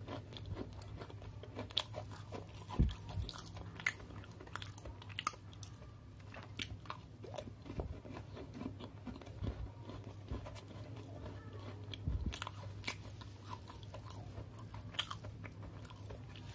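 A person chewing an original Oreo chocolate sandwich cookie, with short crisp crunches scattered all through, over a low steady hum.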